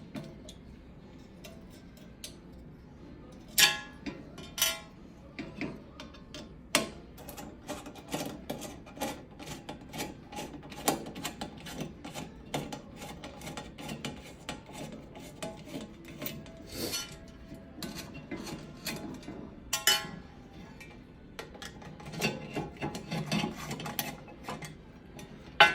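Metal clinking and scraping with irregular sharp clicks and knocks as the oven igniter and its mounting hardware are worked loose and pulled out of the range. The loudest knocks come about 4 seconds in and again near 20 seconds.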